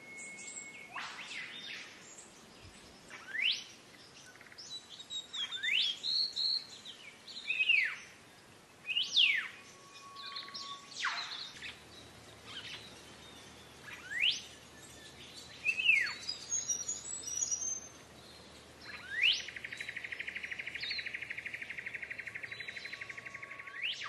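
Black-faced monarch singing: loud, clear whistled notes that slur up and down, one every second or two, followed near the end by a long, even, rapid buzzing trill.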